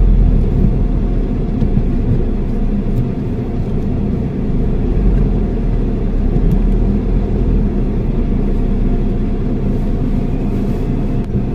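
Car engine running with a steady low rumble, heard from inside the cabin as the car turns slowly.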